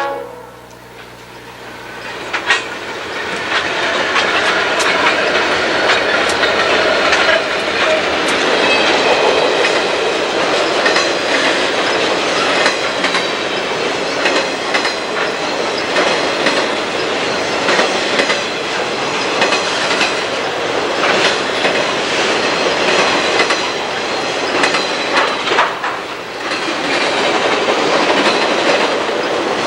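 A long train rolling past, its railroad cars' wheels clicking rhythmically over rail joints with some wheel squeal, building up about two seconds in after a brief lull.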